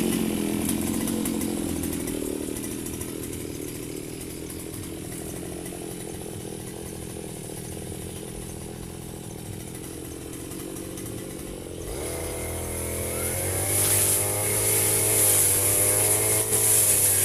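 Two-stroke brush cutter engine (Firman FGB 528) running at speed, then throttled back to idle for about ten seconds, and revved up again near the end.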